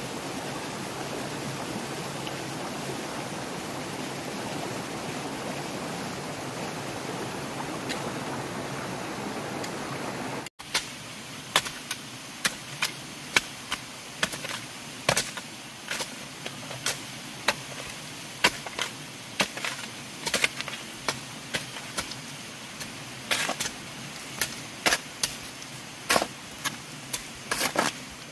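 A steady rushing noise that cuts off abruptly about ten seconds in. It is followed by irregular sharp knocks, about one or two a second, from tool strikes on bamboo during building work.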